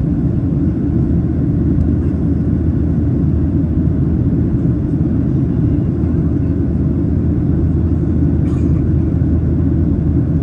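Steady low roar of a Boeing 737-800's CFM56 engines and airflow heard inside the passenger cabin during the climb after takeoff.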